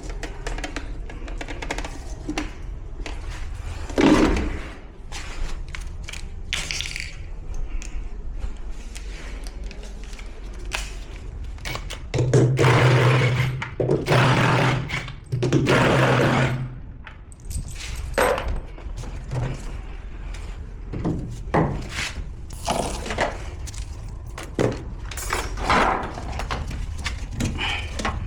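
Knocks, clicks and clatter of tools and metal and plastic washer parts during disassembly of a front-load washing machine, with a motor whirring in three bursts of about a second each about halfway through.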